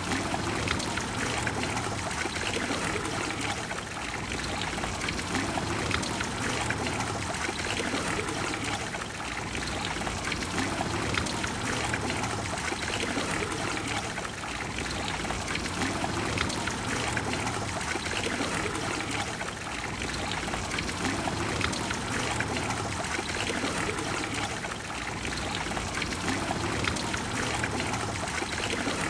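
Water of the Trevi Fountain falling and splashing into its basin: a steady, full rush of water that swells and eases gently every few seconds.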